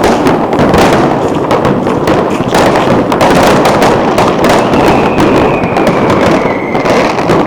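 Many fireworks and firecrackers going off at once in a dense, continuous crackle of rapid bangs. A faint whistle falls slowly in pitch from about the middle until near the end.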